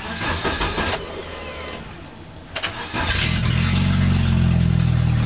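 1994 Dodge Shadow's 2.2-litre four-cylinder engine on a cold start, heard from inside the cabin: the starter cranks it for a few seconds, it catches about three seconds in, and it settles into a steady run through a free-flowing exhaust.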